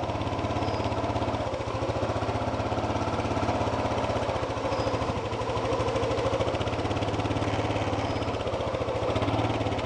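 ATV engine running steadily with an even, fast putter.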